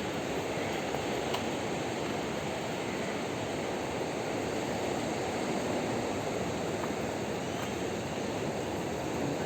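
Steady rushing noise of rain and sea surf, even in level throughout, with a few faint ticks.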